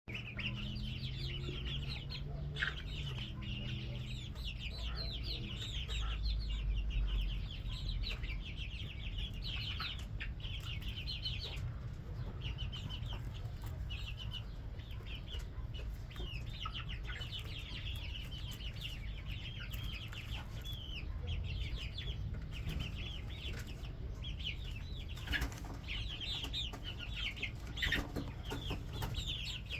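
A group of 1.5-month-old red junglefowl hybrid chicks peeping and chirping continuously, many short high calls overlapping, over a steady low rumble.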